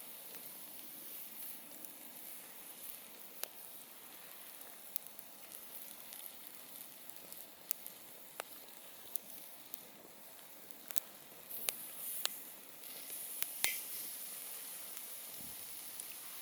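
Wood campfire burning: a steady hiss with sharp crackles and pops, about a dozen scattered through. The hissing swells louder for a couple of seconds from about twelve seconds in, with a loud pop near its peak.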